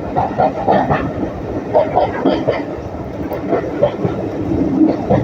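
Heritage railway train running along the line, heard from inside the carriage: steady wheel-on-rail noise with the carriage rattling and knocking.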